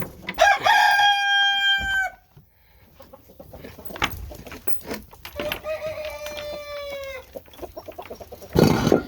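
Two crows from young cockerels that have just begun to crow. A loud one comes about half a second in and lasts well over a second. A fainter one, falling slightly in pitch, comes in the middle. A brief loud noise comes near the end.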